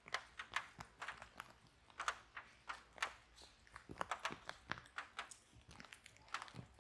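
Wood fire in a fireplace crackling, with irregular sharp pops and snaps several times a second.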